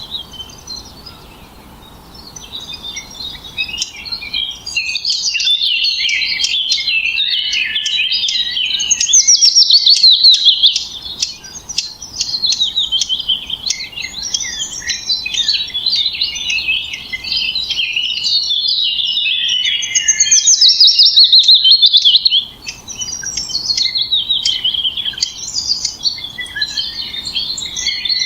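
Songbirds chirping and twittering in a dense, continuous stream, with two louder trilled phrases of a couple of seconds each, about a third and three quarters of the way through.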